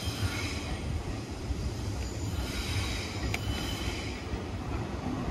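Shinano Railway 115 series electric train pulling into the platform, with a steady low rumble and a high metallic squeal from the wheels, strongest in the middle.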